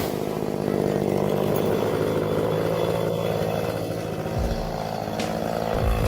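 Chainsaw engine running steadily at high revs.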